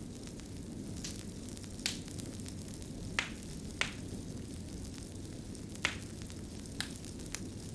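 Fire burning with a steady low rumble, broken by sharp crackling pops, about seven of them at uneven intervals.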